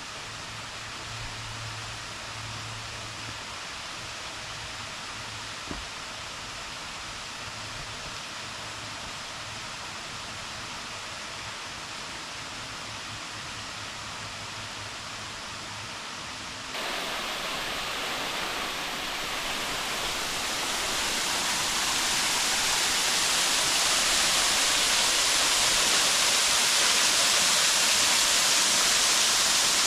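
Steady rushing of Cornelius Falls, a waterfall. It is fainter at first, jumps suddenly louder a little past halfway, keeps growing for a few more seconds as the falls come close, then holds steady.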